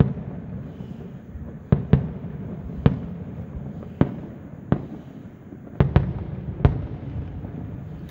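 Fireworks bursting: about nine sharp bangs at uneven intervals, some in quick pairs, over a continuous low rumble.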